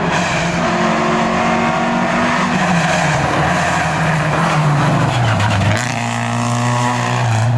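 Historic rally car's engine running hard on a special stage, loud and close, its note sliding down about halfway through and then holding steady.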